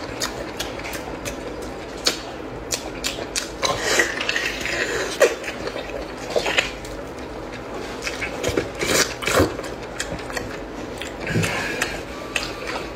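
Close-miked eating sounds of a person biting and chewing cow knee: irregular clicks, smacks and gnawing noises coming in quick, uneven clusters.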